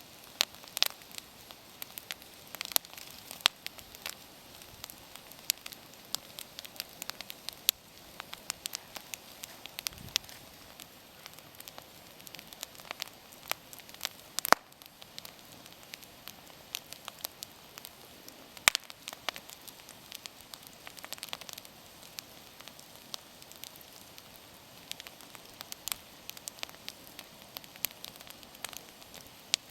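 Wood campfire burning and crackling, with irregular sharp pops and snaps over a faint hiss; the loudest pops come about halfway through and a few seconds later.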